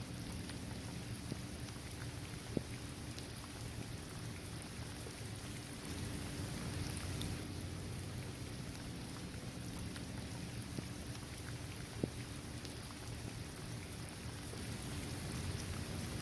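Steady rain falling on a paved basketball court, trees and grass, with a low rumble underneath. Two sharper drop impacts stand out, about two and a half seconds in and again near twelve seconds.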